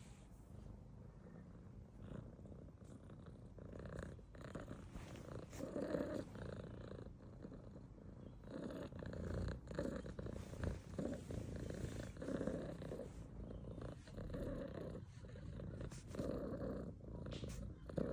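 Domestic cat purring close up, the purr swelling and easing in a rhythm of roughly one breath every two seconds.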